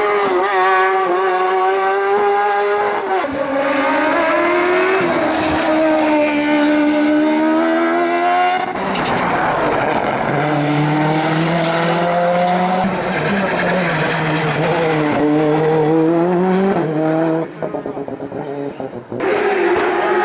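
Race car engines pulling hard up a hillclimb, the pitch climbing through each gear and falling back at the shifts, heard in several short passes cut one after another.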